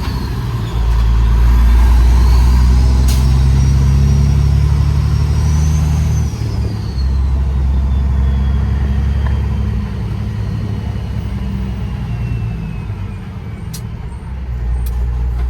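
Detroit Series 60 diesel of a straight-piped Peterbilt 389 glider truck running, with a high turbo whistle that rises and falls over the engine. The engine note drops about six seconds in and again near ten seconds, while the whistle slowly winds down in pitch.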